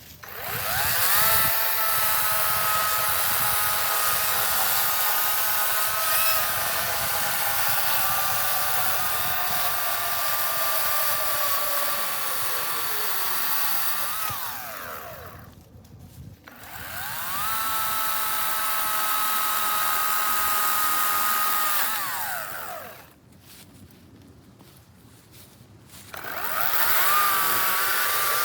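EGO 56-volt battery chainsaw with an 18-inch bar and chain, run in three bursts. Each time the electric motor's whine rises as the chain spins up, holds steady, then falls away as the trigger is released. The first run is the longest.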